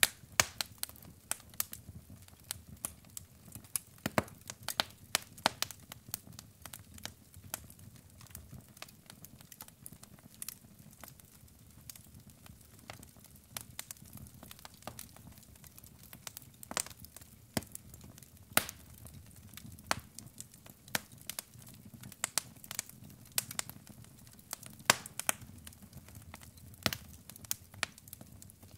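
Wood fire of burning logs crackling and popping: irregular sharp snaps, several a second, over a low steady rumble of the flames.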